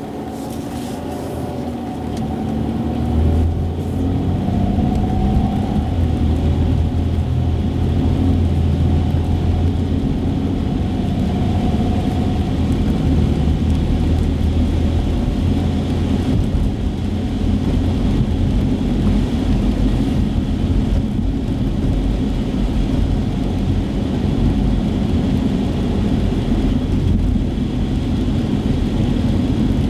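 Car driving on wet streets, heard from inside the cabin: steady low engine and tyre rumble, the engine's pitch shifting in the first dozen seconds.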